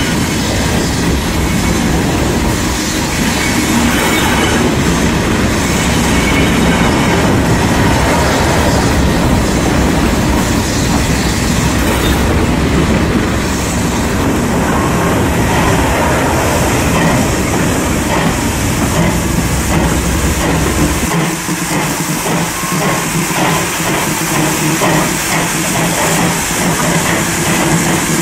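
Railway locomotives running, a diesel locomotive and then steam. From about 21 seconds a steam pannier tank locomotive passes close, with a regular rhythm of beats several times a second.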